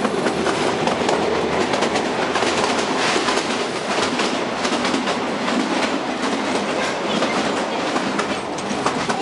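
Narrow-gauge Kalka–Shimla toy train running, heard from inside a passenger coach. A steady rattle of the carriage is overlaid by the clickety-clack of the wheels over the rail joints.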